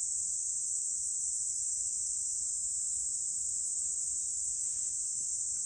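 Summer insects chirring in one steady, unbroken high-pitched drone.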